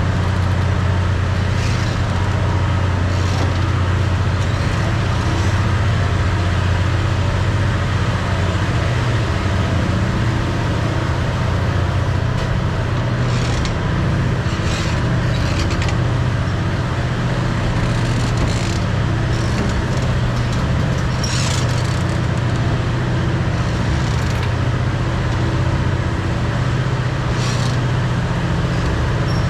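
Train running along the line: a steady low engine drone with scattered knocks and rattles at irregular moments.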